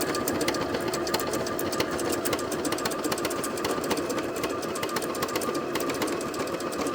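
Janome 5100 computerised sewing machine running steadily at speed, a steady motor hum under a fast, even run of needle clicks.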